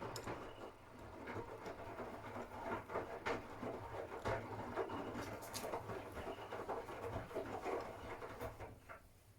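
Miele W1 front-loading washing machine washing a cotton load: the drum turns, laundry tumbles and water sloshes with a low motor hum, starting at once and stopping about nine seconds in as the drum pauses in its wash rhythm.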